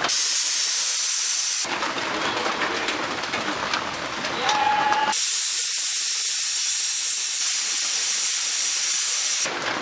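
Food sizzling in hot oil in a cooking pot: a steady high hiss that breaks off after about a second and a half and comes back from about five seconds in.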